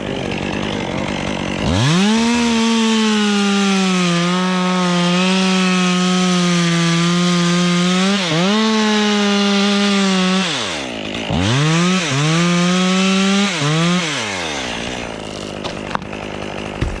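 Chainsaw idling, then revved to full throttle about two seconds in and held steady while cutting through a spar, with a brief dip in pitch partway through. It then drops off, gets a few short revs, and settles back to idle.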